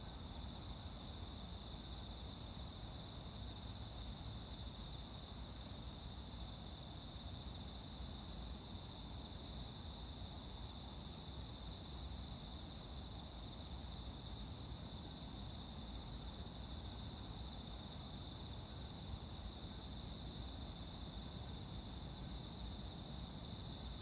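Steady chorus of crickets trilling continuously, over a low background rumble.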